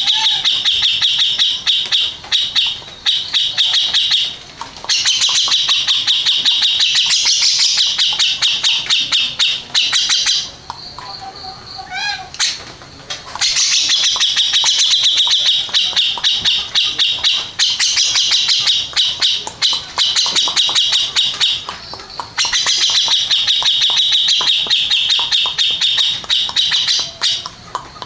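Grey-cheeked bulbul (cucak jenggot) singing loudly in long bouts of fast, harsh repeated notes. A short break comes about halfway, where a few notes climb upward in pitch.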